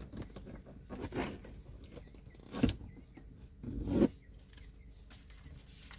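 A few brief rustling, rubbing handling sounds about a second apart, with quiet between them.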